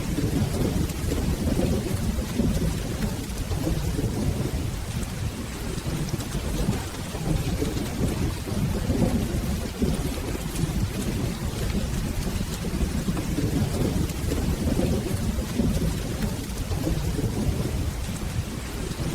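Steady rain with a low, rolling thunder rumble underneath.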